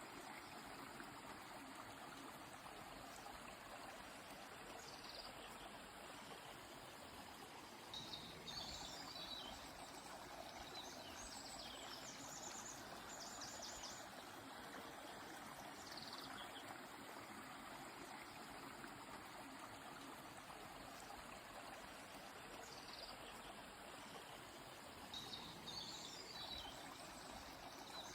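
Steady rush of a flowing river, with small birds giving short high calls and trills every few seconds over it, including a quick run of trills near the middle.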